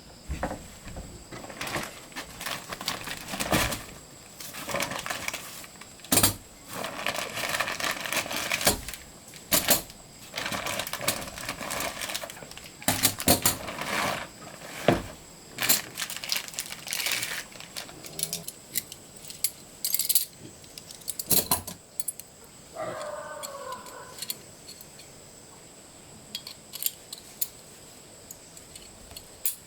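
Irregular clattering, clinking and knocking of small hard objects being handled, in clusters with short pauses, over a steady high insect chirr. About 23 seconds in a brief pitched call falls in pitch.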